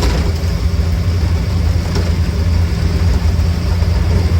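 Triumph TR5 race car's straight-six engine on triple Webers, with a high-lift cam, running steadily as a loud, even low drone while the car is driven.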